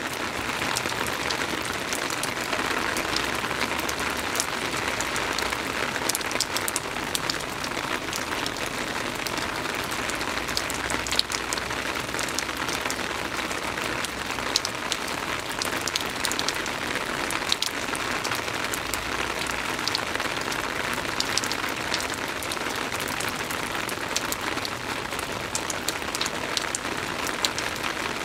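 Soft rain falling steadily: an even hiss with many scattered sharp drop ticks.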